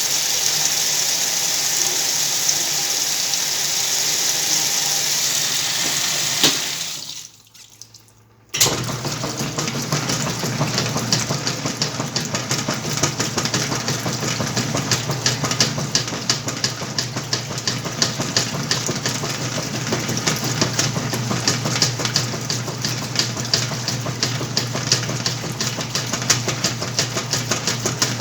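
Whirlpool washing machine filling with water in a steady hiss, which stops with a click about six seconds in. After a short pause the motor starts and runs the wash with a steady hum and rapid ticking.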